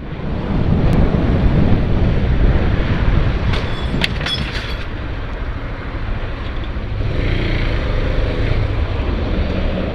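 Steady low rumble of a car's engine and road noise, with a few short sharp clicks about three and a half to four and a half seconds in.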